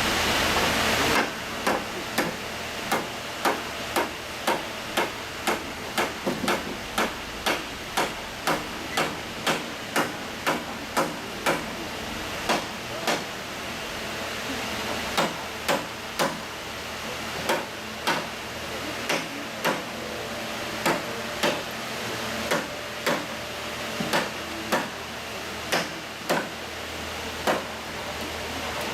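Repeated hammer blows, about one and a half a second with a few short pauses, as parts of a wooden danjiri festival float are driven together during assembly. A steady rushing noise stops about a second in.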